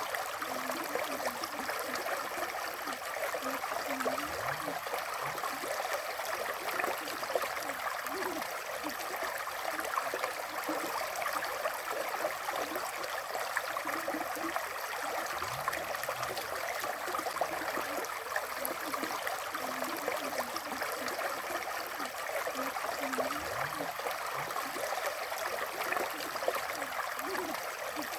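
River water flowing in a steady rush, with small gurgles throughout.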